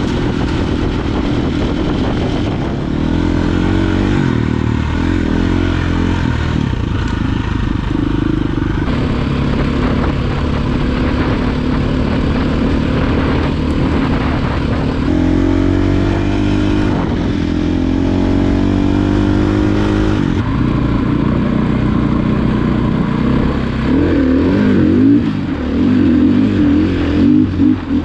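Dirt bike engine running while riding a trail, the pitch climbing as it accelerates through the gears about halfway through, then revving up and down near the end as it climbs a sandy hill.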